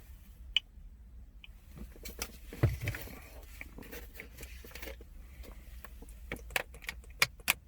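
Handling of a plastic pre-workout tub and scoop: scattered small clicks, taps and scrapes, with a dull knock about two and a half seconds in.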